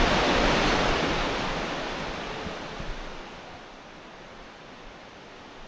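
Steady rushing noise of a large waterfall, fading down over the first few seconds to a low hiss.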